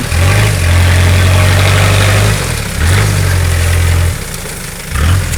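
Daihatsu Rocky's 2.8-litre DL50 turbo diesel revved hard in three bursts under load, the first two long and the last short, as the bogged ute is driven to get out of the mud.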